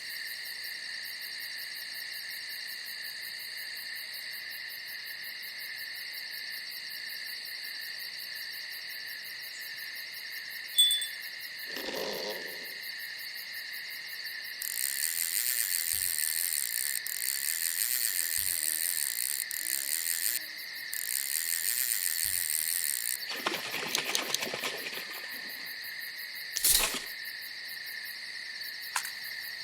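Night insect chorus of crickets trilling steadily on high pitches, joined from about halfway by a louder, very high, rapid buzzing insect for some eight seconds. A brief low call near twelve seconds, a rustle and a sharp knock near the end break in.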